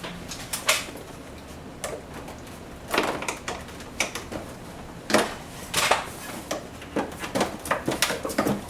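Air-conditioner parts being handled and taken apart: irregular clicks, knocks and short scrapes of hard parts, with louder knocks about three, five and six seconds in and a quick run of clicks near the end.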